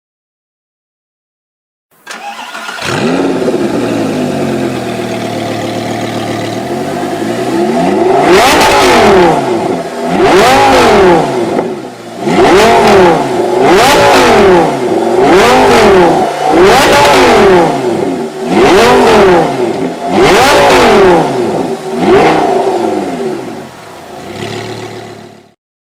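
Lamborghini Gallardo V10 through a Larini GT3 exhaust, idling, then revved in about eight sharp throttle blips roughly two seconds apart, each pitch rising and falling back.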